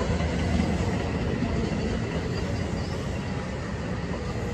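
An NJ Transit electric train of bilevel coaches rolling past on an adjacent track, with a steady rumble of wheels on rail.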